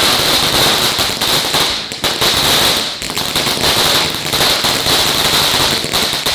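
Consumer ground firework burning: a steady hiss with dense, rapid crackling, easing off near the end.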